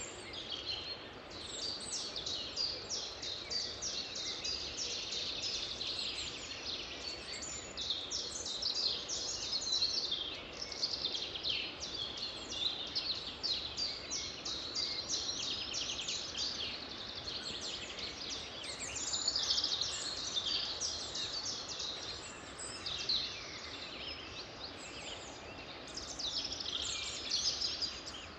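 Several songbirds singing at once, a dense chorus of quick overlapping chirps and trills, over a steady background hiss.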